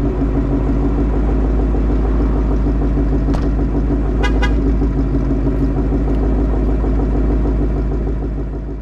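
Ford Mustang's 5.0 V8 running steadily at idle through long-tube headers and a Corsa active-valve exhaust with the valves open in track mode, a deep even rumble. A few short clicks come about three and a half to four and a half seconds in.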